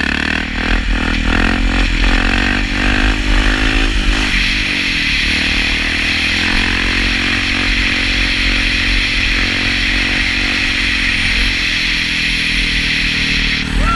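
Dirt bike engine accelerating hard, its pitch climbing and dropping through several quick gear changes in the first few seconds, then holding a steady high rev at speed.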